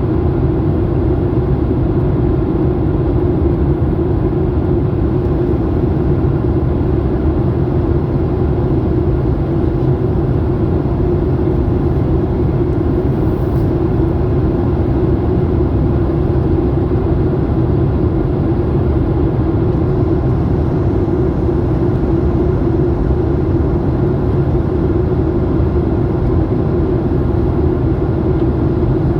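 Airliner cabin noise in flight: the steady, unchanging rumble of the engines and airflow heard from inside the cabin, with a constant hum over it.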